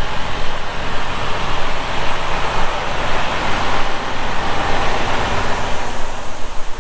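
A heavy diesel engine running steadily, under a broad rushing noise that swells in the middle and eases off near the end.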